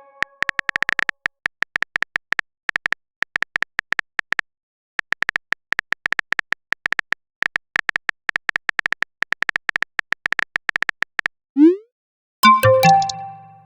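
Rapid clicks of a phone-keyboard typing sound effect, pausing briefly about four seconds in and stopping around eleven seconds. A short rising pop follows, then a chiming message-notification tone near the end.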